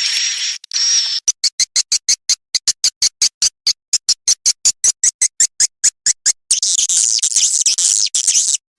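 Swiftlet lure-call recording for a swiftlet house: a second of continuous high chirping over a steady high whistle, then a fast, even run of sharp chirps about six a second, then dense high twittering near the end.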